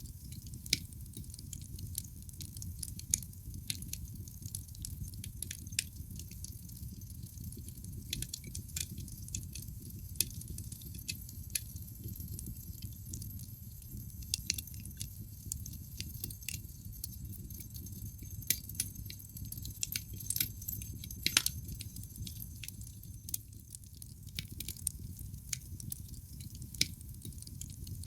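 Wood fire burning in a fireplace: a steady low rumble of flames with irregular sharp crackles and pops from the burning logs, one louder pop about 21 seconds in.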